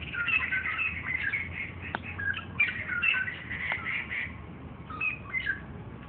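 A bird singing: a quick run of short, varied chirping notes for about four seconds, then a brief phrase of a few notes near the end.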